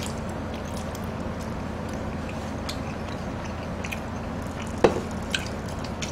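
Wet chewing and small mouth sounds of people eating spicy noodles and tteokbokki, with scattered light clicks and one sharp tap a little under five seconds in, over a steady low hum.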